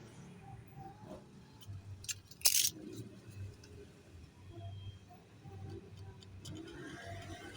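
Small clicks and clinks of objects being handled on a workbench, with one short, sharp scraping burst about two and a half seconds in, over a low steady hum.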